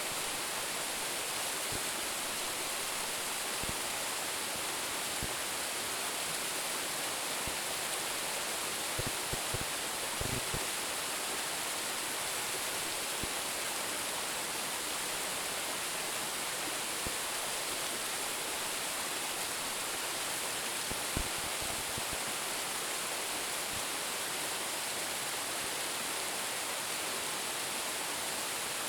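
A waterfall of about a 10 m drop, pouring steadily: an even, unbroken hiss of falling water. A few faint, brief low thuds come around ten seconds in and once more a little past twenty seconds.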